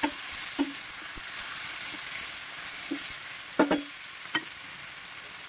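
Chicken pieces with onion and ginger sizzling in a stainless-steel pan while a wooden spatula stirs them, with a few scrapes and knocks of the spatula against the pan, the loudest a little over halfway through.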